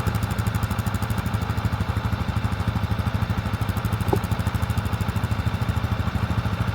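Vehicle engine running steadily with a rapid, even firing pulse, with a short squeak about four seconds in.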